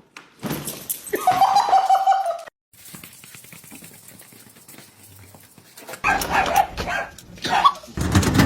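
A dog barking, across several short clips that cut abruptly from one to the next. About a second in, one pitched call is held for about a second.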